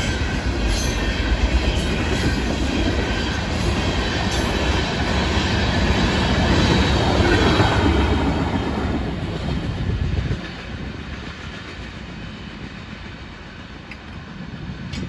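Freight train cars (tank cars and a covered hopper) rolling past on the rails, loud and steady. About ten seconds in the last car goes by and the sound drops off sharply to a quiet background.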